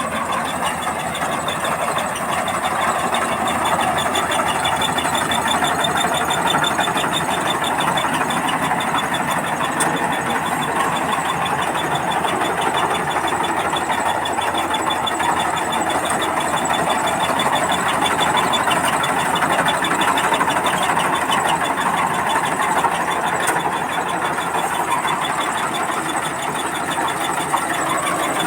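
Combine harvester running steadily while harvesting rice: the engine and the cutting and threshing machinery make a continuous mechanical clatter, with a faint high whine over it.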